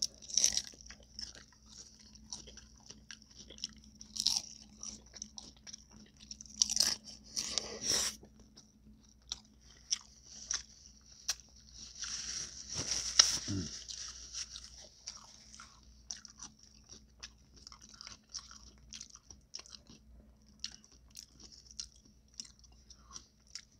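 Close-miked biting and chewing of tacos: scattered crisp crunches and wet mouth clicks, with a longer, louder run of crunching a little past halfway.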